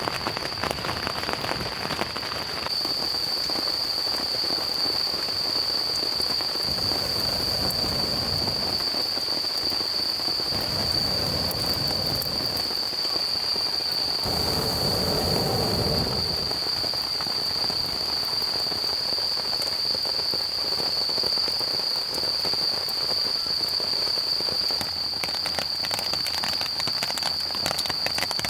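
Steady rain falling, with a few heavier low swells partway through. A constant high-pitched whine sits over it.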